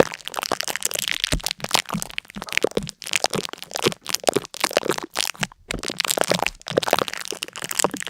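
Dense, irregular crackling and crunching, many sharp cracks a second, with a brief pause about five and a half seconds in.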